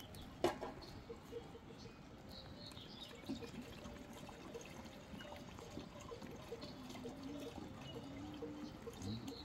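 Liquid pouring and trickling steadily, with one sharp knock about half a second in.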